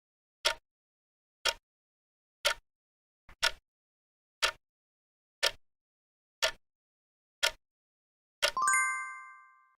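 Countdown-timer clock ticks, one per second, eight in a row, followed near the end by a ringing bell chime that fades out, the signal that the answer time is up.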